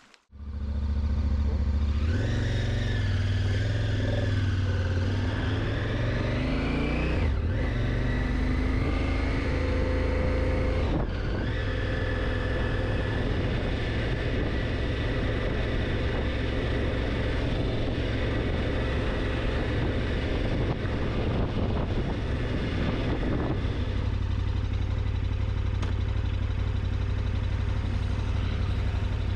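Motorcycle engine pulling away and accelerating, its pitch rising with a couple of gear changes in the first ten seconds or so, then running steadily at cruising speed with wind noise.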